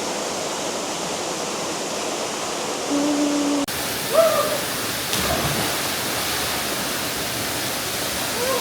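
Waterfall: a steady rush of falling water. About three seconds in, a short steady tone sounds for under a second, then the sound changes abruptly and a brief rising-and-falling, voice-like call follows.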